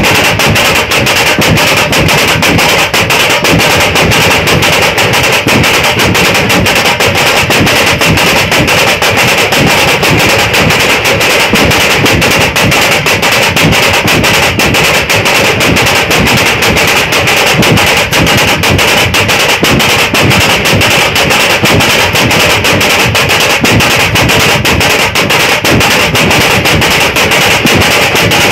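Dhol-tasha troupe drumming: big barrel dhols and tashas beaten loud and steady in a dense, fast, unbroken rhythm.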